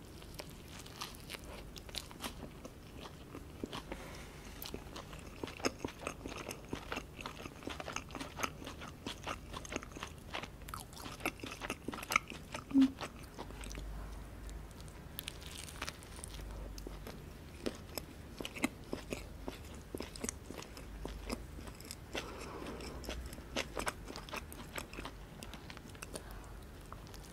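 Close-miked eating of a McDonald's honey mustard burger with shredded lettuce: repeated bites and chewing, with crisp crunches and wet clicking through the whole stretch. One louder short sound comes about halfway through.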